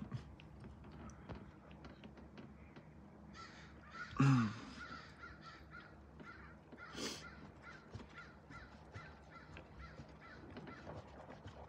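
A man chewing a bite of a sausage, egg and cheese McGriddle: soft mouth clicks at about two a second. About four seconds in comes one louder, short, harsh sound that falls in pitch.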